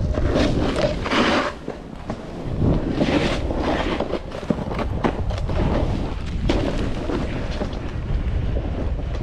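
Wind rushing over the microphone with a steady low rumble, and louder scraping hisses about a second in and again around three seconds in.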